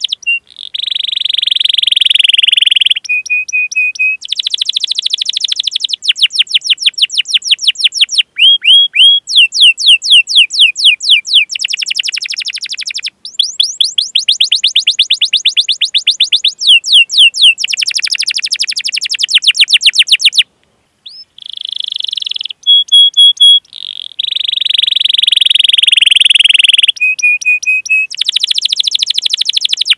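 Domestic canary singing a long, continuous song: fast rolling trills, rapid runs of repeated chirps, buzzy stretches and short held whistle notes, with a brief pause about two-thirds of the way through.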